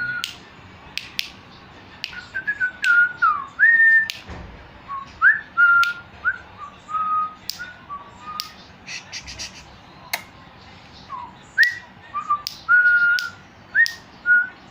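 Short whistled notes in an irregular tune, some held and some sliding up or down, with sharp clicks scattered between them.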